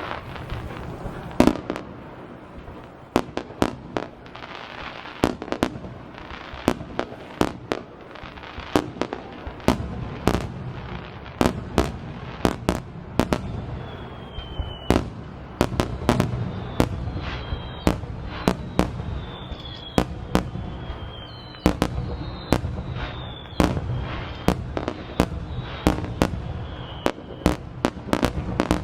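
Fireworks display: a rapid barrage of aerial shells bursting, several sharp bangs a second, with short falling whistles mixed in from about the middle onward.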